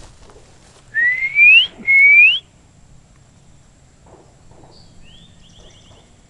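A person whistling two loud rising notes in imitation of a bird's call. About three seconds later a bird answers faintly with a short rising note and a quick run of about six short notes.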